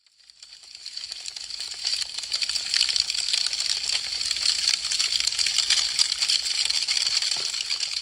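Wood fire crackling: a dense, rapid run of sharp pops and snaps that fades in from silence over the first couple of seconds and then holds steady.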